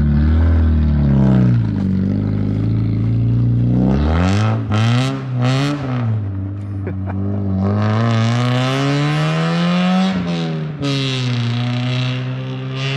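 Car engine with a very loud exhaust, running low and uneven at first, blipped a few times about four to six seconds in, then revving up through a long climb that drops suddenly at a gear change about ten seconds in and climbs again.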